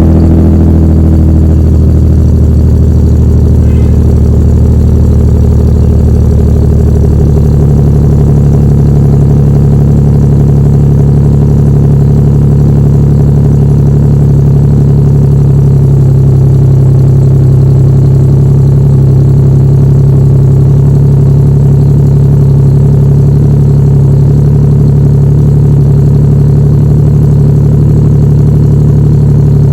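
2008 Ford Ranger's 3.0 L V6 idling through a Star Max aftermarket exhaust with a 3-inch pipe and 5-inch split tip, just after being started. The idle note is steady, shifting once about seven seconds in and then holding even.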